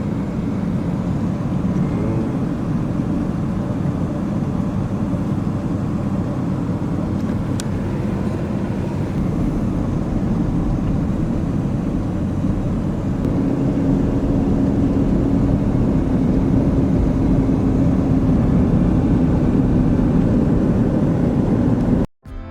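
Steady low rumble of vehicle travel noise, as heard from inside a moving vehicle, with a faint steady hum joining about halfway through.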